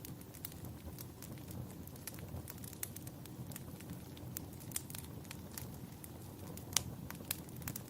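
Wood fire crackling: a steady low rumble of flames with frequent small snaps, and a sharper pop near the end.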